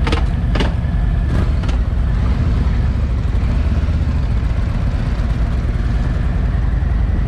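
Motorcycle under way on the road, its engine and rushing wind making a steady, heavy rumble on the microphone, with a few sharp knocks in the first two seconds.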